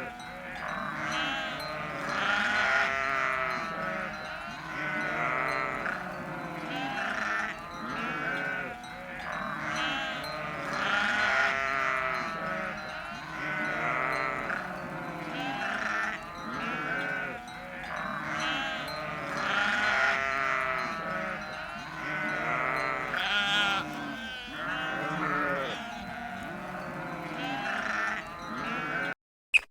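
A flock of livestock bleating, many wavering calls overlapping one another without pause; the sound cuts off just before the end.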